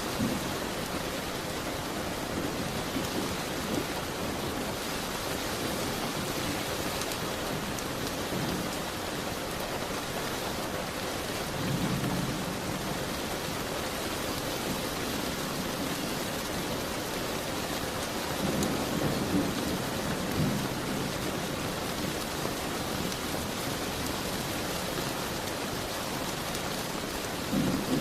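Steady rain falling against a window, with a wood fire crackling in a fireplace. A few times a low rumbling swell rises for a second or two: about twelve seconds in, again around nineteen to twenty-one seconds, and near the end.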